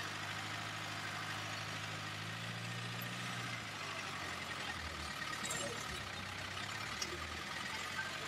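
Vehicle engine idling steadily with a low hum.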